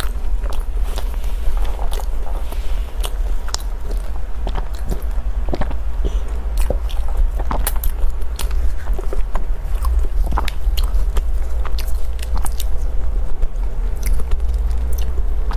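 Close-up biting and chewing of crunchy food: irregular crisp crunches and clicks, a few every second, over a steady low hum.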